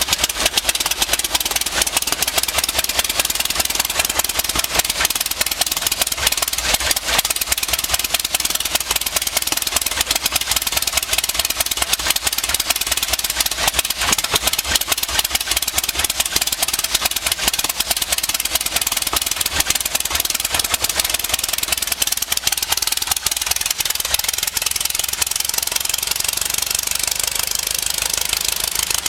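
Hatz CB1 single-cylinder diesel engine running steadily with a rapid, even knocking beat, on its first run after lying upside down in water.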